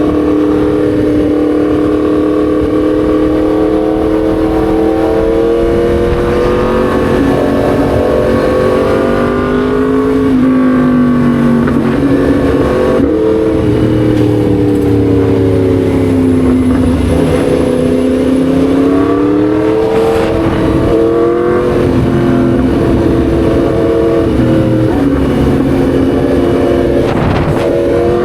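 Yamaha MT-10 SP's crossplane inline-four engine running under way. Its pitch climbs slowly for the first several seconds, drops about ten seconds in, then falls and rises again a few more times as the throttle is opened and eased off. A steady rushing noise runs underneath.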